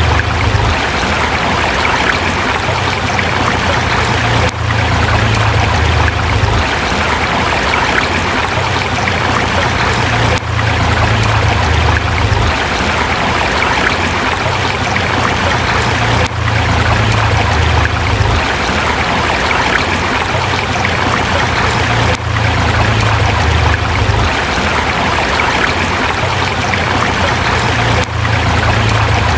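A river flowing over rocks: a steady, loud rush of water with a low rumble underneath. The sound dips briefly about every six seconds.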